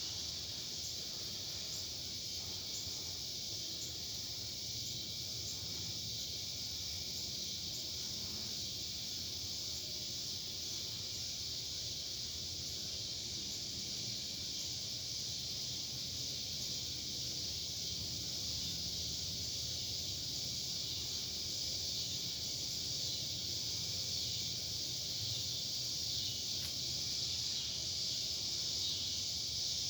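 Steady chorus of insects, a dense high-pitched buzz with no break, growing slightly louder toward the end, over a faint low rumble.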